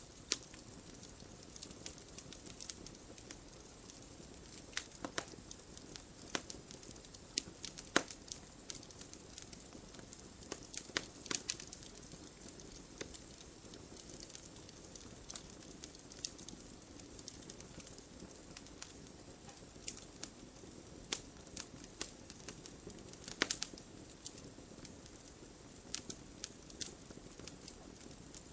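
Wood fire crackling: irregular sharp pops and snaps over a steady soft hiss, with a few louder pops scattered among them.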